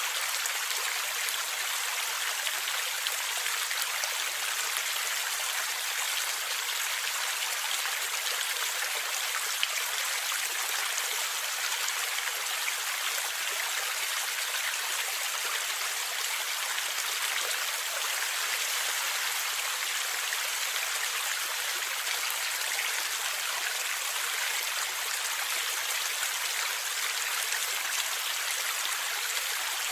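Stream water flowing and gurgling steadily, a constant watery rush with small splashes in it.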